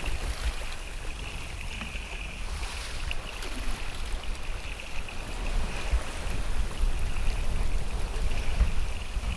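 Wind and rushing sea water aboard a sailboat under way in the open ocean: a steady hiss of water and wind, with a low rumble of wind buffeting the microphone.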